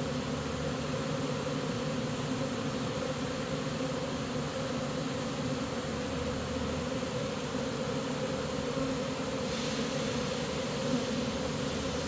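A honey bee swarm buzzing: a steady drone of many bees.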